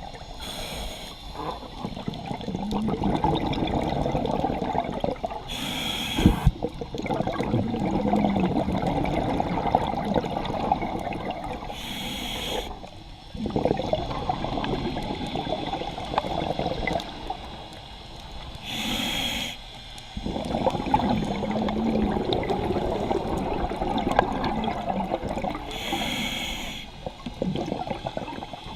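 Scuba diver breathing through a regulator underwater: a short hissing inhale about every six to seven seconds, each followed by several seconds of bubbling exhaust bubbles.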